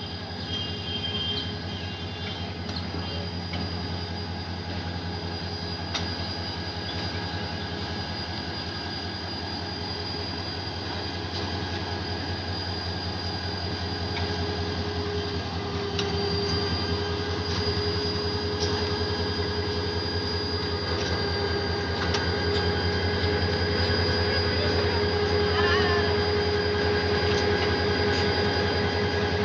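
Passenger train running on the rails, its wheels squealing with steady high-pitched tones over a continuous rumble, growing steadily louder.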